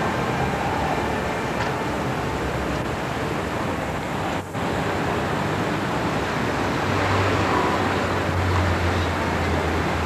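RER MI79 electric train running into a station, a steady rumble, cut off abruptly about halfway through. It gives way to a steady outdoor traffic rumble with a low hum.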